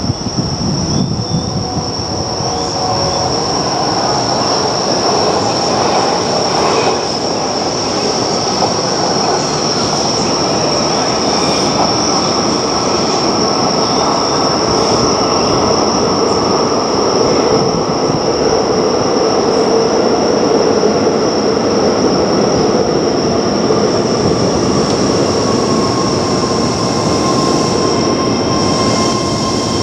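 Keio Line electric train running on the rails, a steady loud rumble of wheels and running gear with a constant high-pitched whine over it. A faint rising whine comes in near the end.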